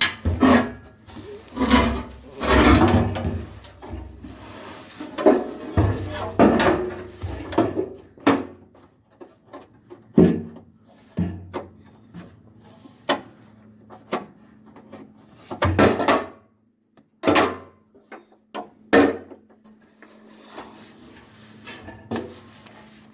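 Irregular clunks, scrapes and knocks of parts and tools being handled during hands-on car repair work. They come thickest in the first eight seconds, then as scattered sharp knocks, with a faint steady hum underneath in the second half.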